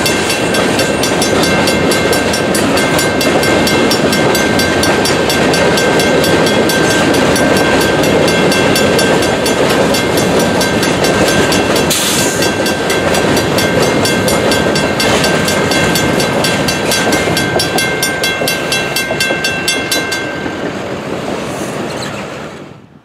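Empty grain hopper cars of a freight train rolling through a road crossing, wheels clacking over the rail joints, while the crossing's WC Hayes mechanical bell rings in a steady, even beat. The bell stops about three seconds before the end, and the train noise then fades quickly as the last car clears.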